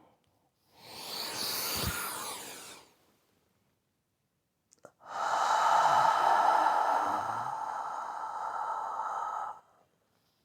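A man takes a deep breath in, then breathes out a long, breathy, whispered "haaa" lasting about four and a half seconds: the Taoist healing sound for the heart.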